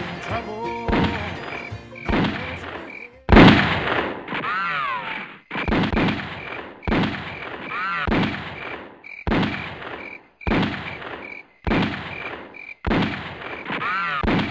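Music for the first few seconds, then a string of single gunshots, roughly one a second. Each shot is a sharp crack that fades off in a ringing echo, and the first is the loudest.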